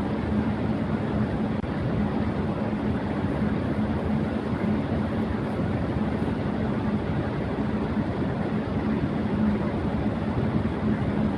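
Electric fan running at high speed: a steady rush of air with a constant low hum.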